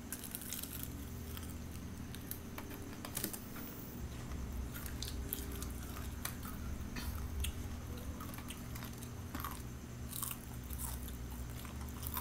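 Two people biting into and chewing fried chicken close to the microphone, with scattered crunches and clicks.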